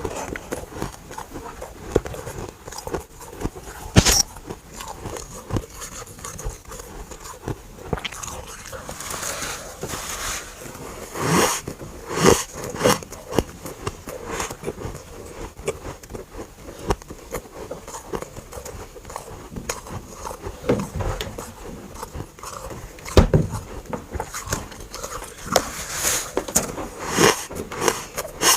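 Close-miked biting and chewing of dry, powdery freezer frost chunks: a steady run of irregular crunches, with a few sharper, louder bites.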